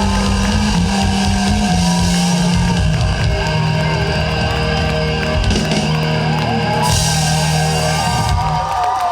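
Live rock band playing loud, with guitars, bass and drum kit: the instrumental close of a song. The low bass notes stop shortly before the end.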